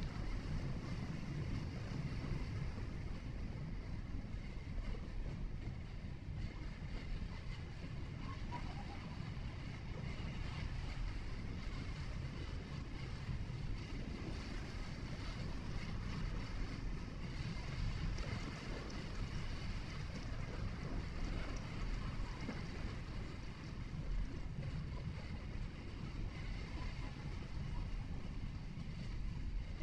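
Steady low rumble of a vehicle driving: engine and tyre road noise picked up by the dash cam inside the vehicle.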